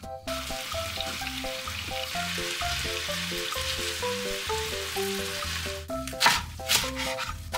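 Chicken shawarma sizzling in a hot frying pan, a steady hiss; about six seconds in it gives way to two sharp knife chops through romaine lettuce on a plastic cutting board.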